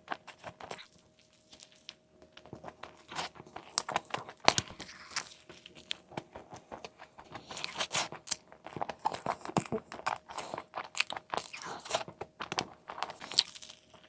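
Close-miked eating of a crispy chicken burger: a run of sharp crunching bites and chewing, sparse in the first few seconds and dense from about halfway on.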